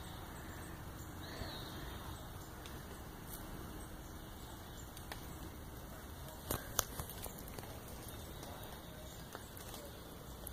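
Quiet outdoor background hiss with a few faint ticks, and two sharp clicks close together a little past the middle.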